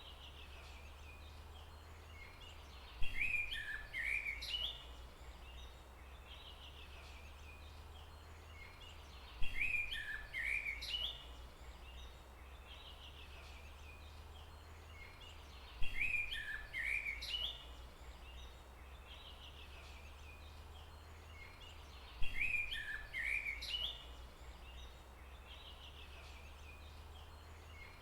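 A songbird singing the same short chirping phrase, about two seconds long, four times at even gaps of about six seconds. Each phrase opens with a sharp click, over a steady low hum.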